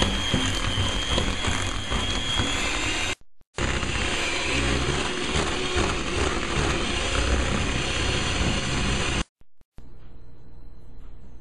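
Electric kitchen mixer running at a steady high speed with a thin motor whine, broken off abruptly twice. Near the end it gives way to a much quieter background with a few faint clicks.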